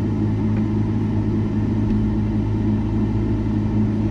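Steady low mechanical hum at a constant pitch, like an engine or motor running nearby.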